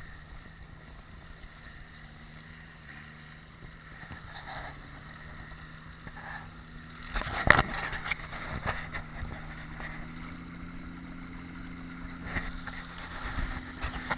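A tractor engine running steadily. A burst of loud knocks and clanks comes about halfway through, with a few lighter knocks after it.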